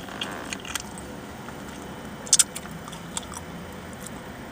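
A person chewing and biting into food, with a few short, sharp mouth clicks, the loudest a quick pair about two seconds in, over a low steady hum.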